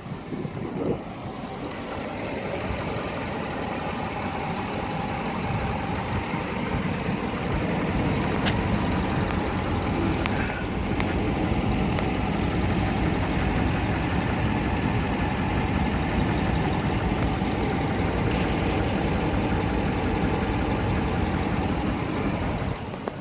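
2014 Dodge Ram 2500 pickup's engine idling steadily, growing louder over the first several seconds and then holding level.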